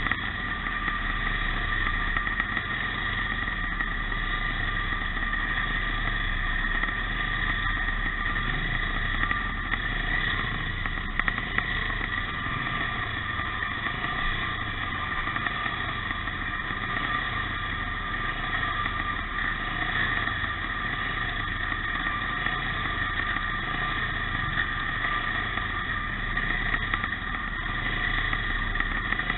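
Pre-65 motocross motorcycles racing, their engines running hard in a steady, continuous drone with no break.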